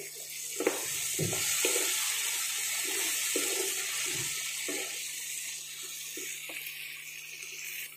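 Onion, tomato and capsicum masala sizzling in oil in a nonstick pan, a steady hiss that eases off toward the end, with a few short knocks and scrapes from a wooden spatula stirring it.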